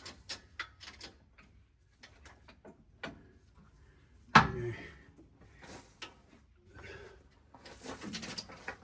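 Scattered metal clinks and knocks of tools and suspension parts being handled, with one loud metallic clank about four seconds in.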